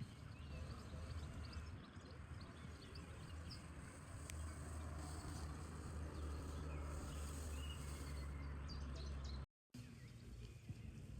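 Outdoor ambience: a steady low rumble with birds chirping here and there. The sound cuts out for a moment near the end.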